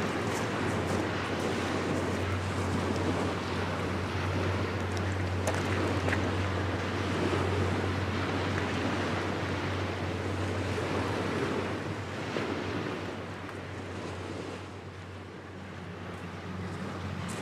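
Wind on the microphone and waves at the water's edge, over a steady low hum; it eases off for a few seconds near the end.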